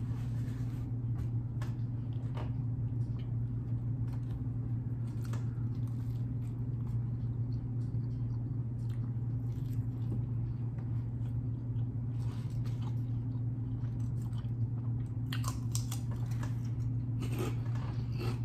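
Close-up mouth sounds of a man biting into and chewing a tuna salad wrap in a soft flour tortilla, with scattered wet clicks and crunches and a run of sharper crunches near the end. A steady low hum runs underneath.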